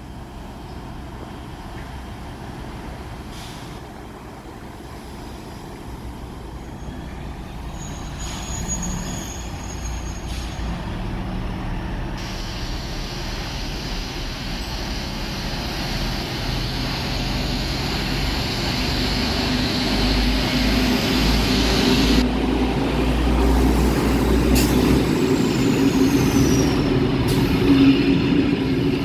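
Historic train approaching, its low rumble growing steadily louder, with a brief high-pitched squeal about eight seconds in.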